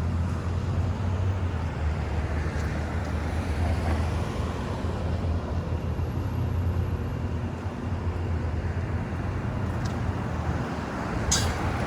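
City street traffic: a steady low rumble of vehicles with general street noise, and one brief sharp sound near the end.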